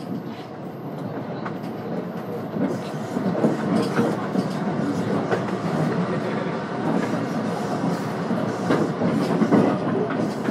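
Running noise heard inside a 521-series electric train car: a steady rumble of wheels on rails with scattered faint clicks, growing somewhat louder a couple of seconds in.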